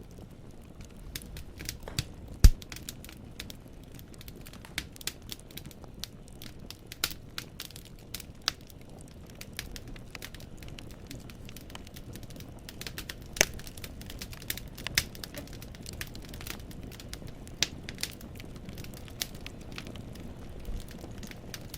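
Wood fire in a fireplace crackling: irregular sharp pops from burning firewood over a soft low rumble, with one louder pop about two and a half seconds in.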